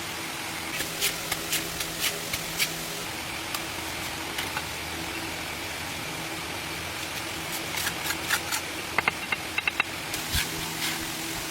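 Sharp, irregular taps and clicks of hand tools on brick over a steady low hum, with a quicker run of taps near the end.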